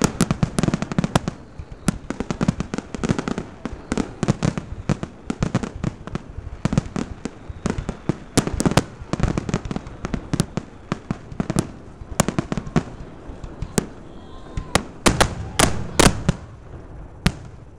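Aerial fireworks bursting in a dense, rapid barrage of sharp bangs and cracks, with a cluster of the loudest bangs around the fifteen-to-sixteen-second mark, then stopping shortly before the end.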